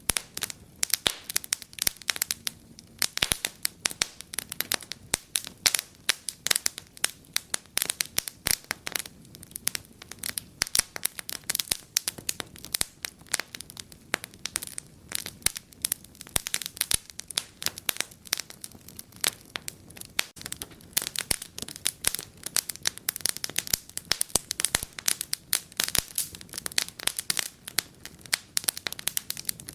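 Wood fire in a fireplace crackling and popping, with many sharp, irregular snaps each second over a faint low hiss.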